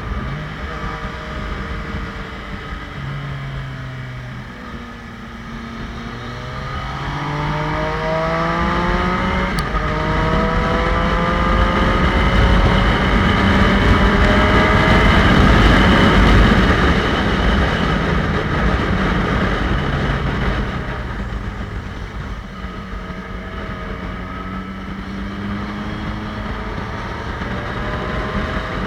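Motorcycle engine running on the move. Its revs climb as it accelerates about a quarter of the way in, it grows loudest about halfway, then it eases off.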